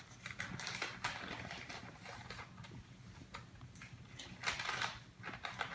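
Cardboard package being cut open with a blade: irregular scraping, clicking and rustling of tape and cardboard.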